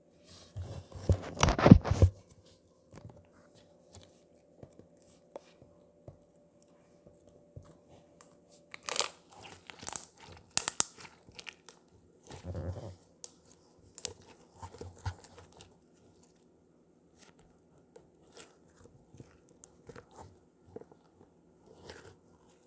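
Slime being worked by hand, giving irregular bursts of sticky crackling and popping clicks. It is loudest about a second in and again around nine to eleven seconds, with quieter scattered pops between.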